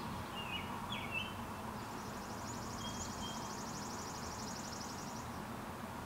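Songbirds calling outdoors: a few short chirps in the first second, then a rapid high trill lasting about three seconds, over steady low background noise.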